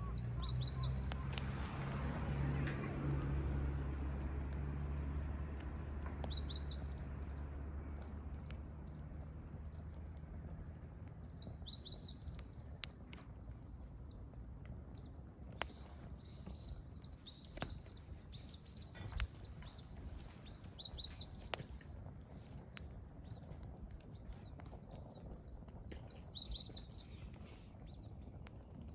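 A wild songbird repeats a short, high song phrase about every six seconds, with a few sharp crackles and pops from burning firewood. A low steady rumble underneath fades out about ten seconds in.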